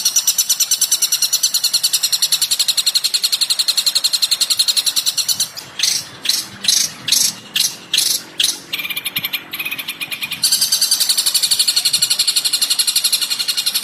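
Recorded bird-call training track (masteran) for long-tailed shrikes. A fast, even, buzzy trill is broken about six seconds in by some eight sharp separate notes and a short buzzy tone, then the trill comes back.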